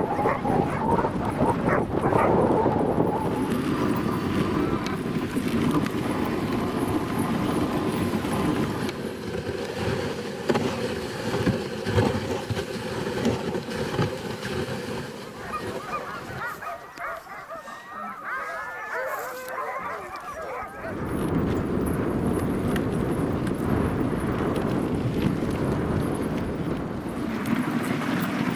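Dog sled drawn by a husky team over snow: a steady rushing scrape of the runners. Partway through it drops away for a few seconds while huskies howl and yip in wavering high calls, then the rush returns.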